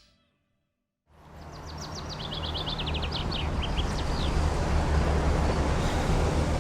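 City street ambience fading in after a moment of silence: a steady low traffic rumble, with a small bird chirping in a quick run of short notes from about a second and a half to four seconds in.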